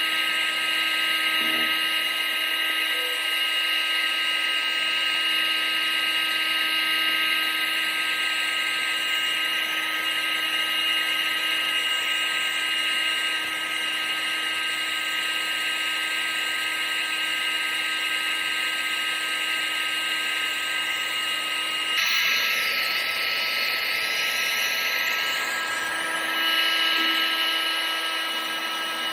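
Household appliance's electric motor and fan running steadily: a high motor whine over a rush of air. The pitch pattern changes abruptly about three-quarters of the way through.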